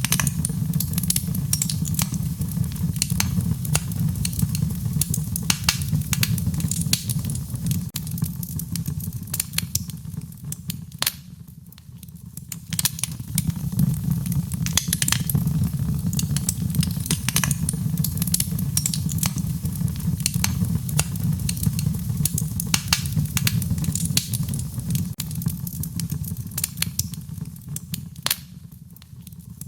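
Wood fire burning: a steady low rumble of flames under frequent sharp crackles and pops of burning wood. Twice, about eleven seconds in and again near the end, the crackling briefly thins out and the sound drops.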